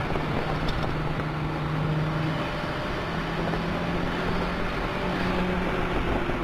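Toyota MR2 Turbo's turbocharged 2.0-litre four-cylinder engine, heard from inside the cabin, running at steady moderate revs under road and wind noise.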